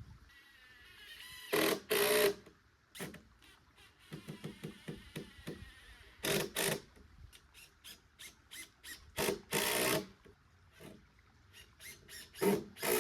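Cordless driver sinking screws into wood in short bursts, several of them in pairs, with smaller clicks and knocks of handling between.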